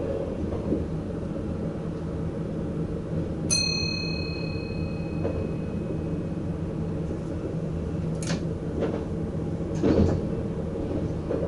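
A VIRM double-deck electric train running, heard from the driver's cab: a steady low rumble of wheels on rails. A single bell-like ding rings out about three and a half seconds in and fades over a couple of seconds. Two sharp knocks come near the end.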